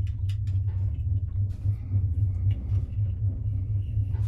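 Low, uneven rumble from inside a tramway gondola cabin riding its cable near the top station, with a few faint clicks.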